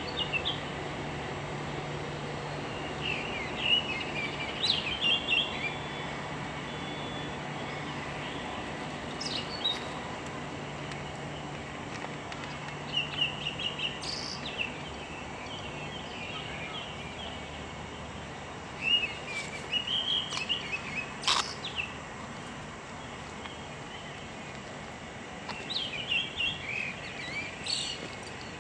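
Birds calling in short bursts of quick, high chirps every few seconds, over steady outdoor background noise and a faint low hum. A single sharp click is heard about two-thirds of the way through.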